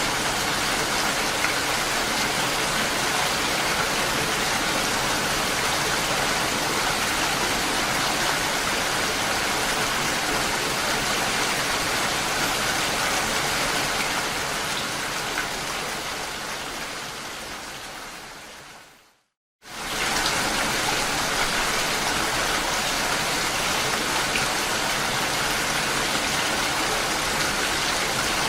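Steady rain falling, an even hiss of drops. About two-thirds of the way through it fades out to a brief moment of silence, then comes back suddenly at full strength, like a loop restarting.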